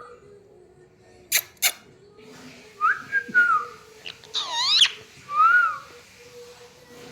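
Pet parrot whistling and calling: two sharp clicks a little over a second in, then short rising-and-falling whistles. About halfway through comes its loudest sound, a wavering call with many overtones.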